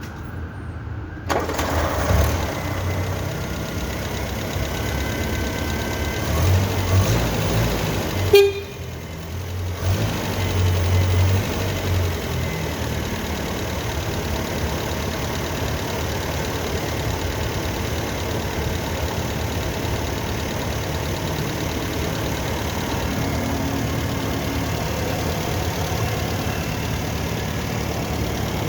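1968 Land Rover Series IIA engine starting about a second in, revving unevenly for several seconds with a brief cut-out near eight seconds, then picking up again and settling into a steady idle.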